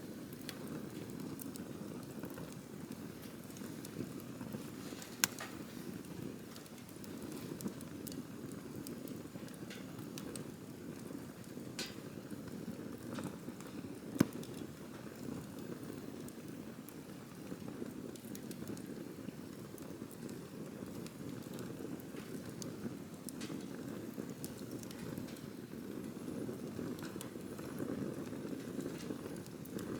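Wood campfire burning: a steady low rumble of flames with scattered crackles and sharp pops, the loudest about five seconds and fourteen seconds in.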